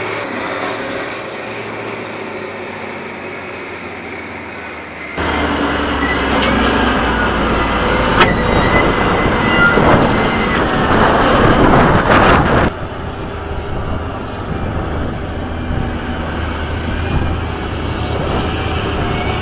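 Heavy diesel earthmoving machinery running, in clips cut together: it changes suddenly about five seconds in and again near thirteen seconds, with a louder, rougher stretch between the cuts.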